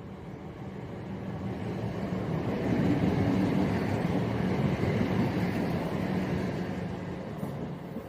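A diesel passenger train passing through at speed: its engine hum and running noise build, peak about three to six seconds in, then fade as it goes by.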